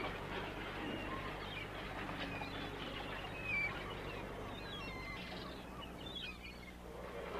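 Birds chirping: scattered short, high chirps over faint outdoor background noise.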